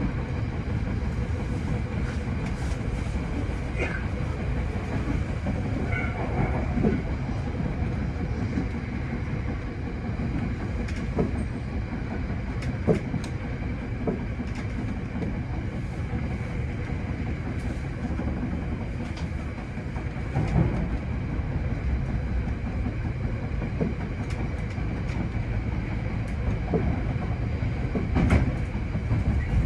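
Hankyu 8000 series electric train running along the line: a steady low rumble of wheels on rail, with scattered sharp clicks as the wheels pass over rail joints.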